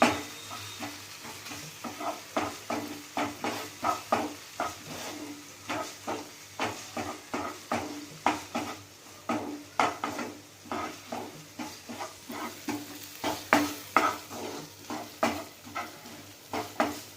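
A utensil stirring and scraping onions and capsicum in sauce around a pan, in many short strokes, over a low sizzle of the food frying on a low flame.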